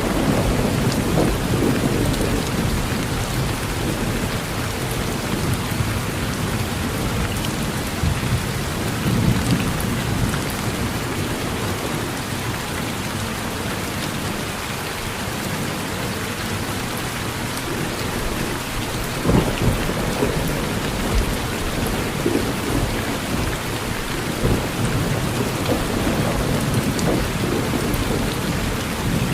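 Thunderstorm: steady rain hissing, with low rumbles of thunder swelling and fading several times and one sharper thunder crack about two-thirds of the way through.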